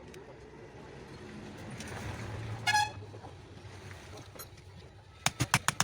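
A passing vehicle's low rumble swells, and a horn gives one short toot in the middle. Near the end comes a quick run of sharp clicks or knocks.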